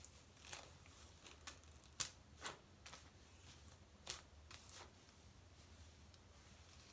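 Detangler brush being pulled through wet, curly hair: a handful of short, faint scratchy strokes, the loudest about two seconds in.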